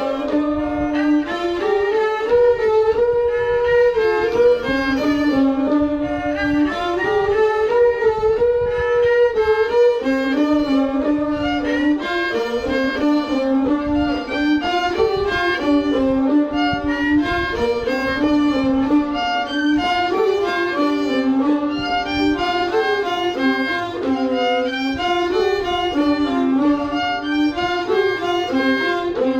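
A bowed string instrument playing a continuous melody, moving stepwise between notes with many note changes.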